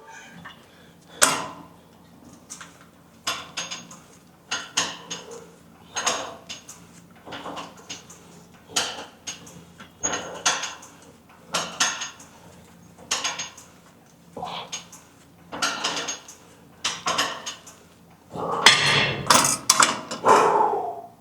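Gym weights clanking at a steady rep pace, roughly once every second or so during a warm-up set, with a denser, louder run of clanks near the end.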